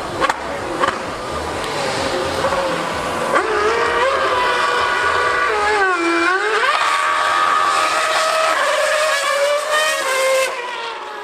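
A 2013 Formula 1 car's V8 engine revving high on track. Its pitch climbs, dips sharply and rises again about six seconds in as the car shifts or brakes, holds high, then falls away near the end.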